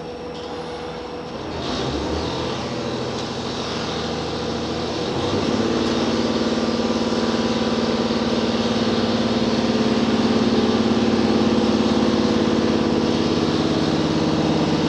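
Heard from inside the cabin, the H100 DECMO railcar's diesel engine and electric drive pick up about a second and a half in, then from about five seconds in settle into a louder, steady hum with several held tones as the railcar accelerates.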